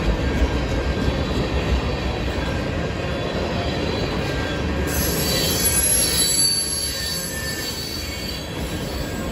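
Freight train tank cars rolling past on the rails, a steady low rumble of wheels on track. About halfway through, a high-pitched wheel squeal sets in over the rumble.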